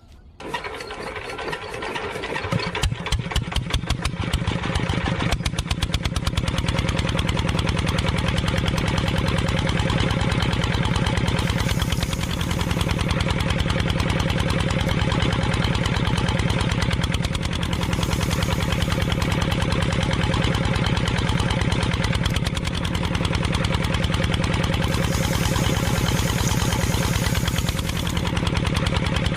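A small motor starts up and speeds up over the first few seconds, then runs steadily with a fast, even rattle.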